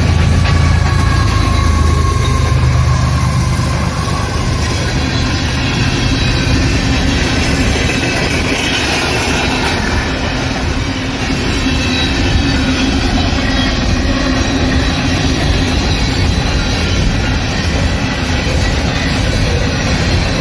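Westbound train passing at close range. A diesel locomotive's low engine hum fades over the first few seconds, then a long line of rail cars rolls by with wheels clattering on the track.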